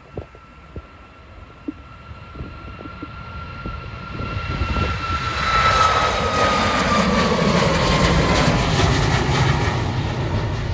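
Ryanair Boeing 737's jet engines at takeoff thrust during the takeoff run. Faint at first, the sound grows loud about four seconds in, with a high whine that slowly drops in pitch over the second half.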